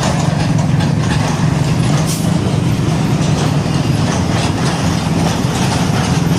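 Heavy diesel truck engine running with a steady low drone over road and traffic noise.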